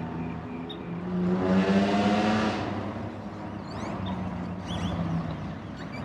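A car passes close by, its engine and tyre noise swelling to a peak about one to two and a half seconds in and then fading, over steady background traffic. Birds chirp briefly near the end.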